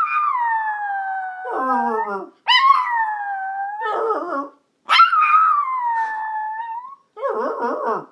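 Yorkie howling: three long howls, each starting with a sharp high onset and sliding down in pitch. Between them come shorter, lower, wavering howls.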